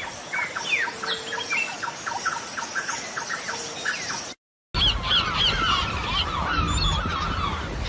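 High animal calls in two clips: rapid, evenly repeated short chirps, then, after a brief cut to silence about four and a half seconds in, a denser chorus of squeals and chirps over a low rumble.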